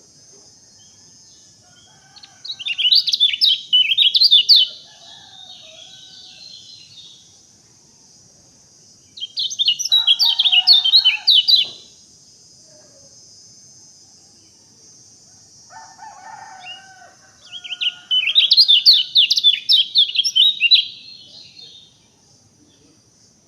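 Songbird singing in three bursts of rapid, high chirping notes, each two to three seconds long, over a steady high hiss, with fainter lower calls between the bursts.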